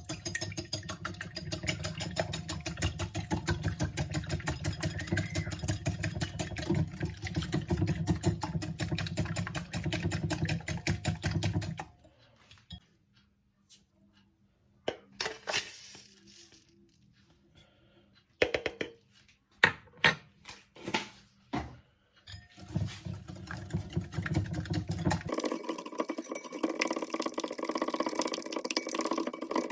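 A small electric kitchen appliance motor running with a fast, even pulse for about twelve seconds, typical of mixing pancake batter. Then a few scattered clicks and knocks, a short second run of the motor, and near the end a different steady noise takes over.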